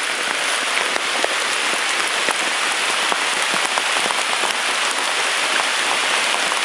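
Heavy downpour falling on a river's surface: a steady, dense hiss of rain peppered with countless small drop ticks.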